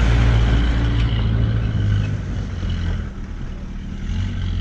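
Jeep engine running as it drives uphill, a steady low drone that weakens about three seconds in and comes back near the end.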